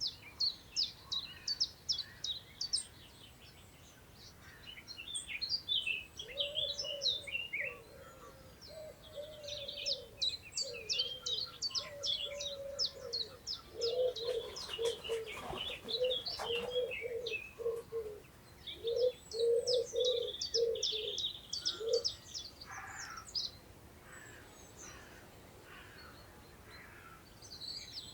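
Several songbirds singing at once in quick, high chirping and trilling phrases that overlap. Through the middle, a lower bird call repeats in a string of short notes.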